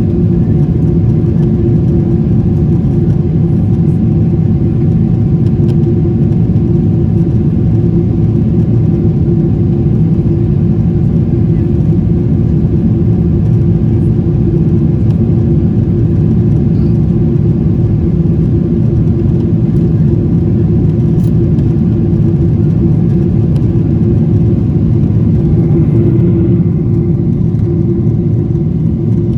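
Airplane engine drone, loud and steady, with a constant low hum that holds one pitch and does not rise or fall.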